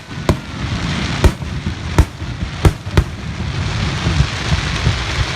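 Fireworks going off: five sharp bangs in the first three seconds over a continuous hiss that carries on after the last bang.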